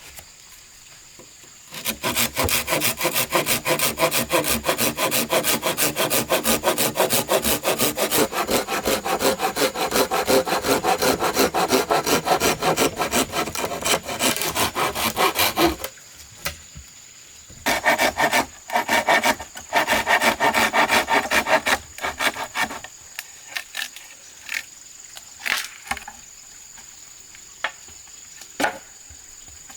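Hand saw cutting wood in fast, steady back-and-forth strokes for about fourteen seconds. It pauses, then saws for a few more seconds, followed by scattered light knocks.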